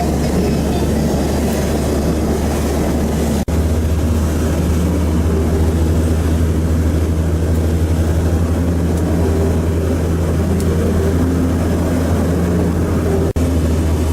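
Strong gusty wind buffeting the microphone with a loud, steady low rumble, over the hiss of heavy rain. The sound cuts out for an instant twice.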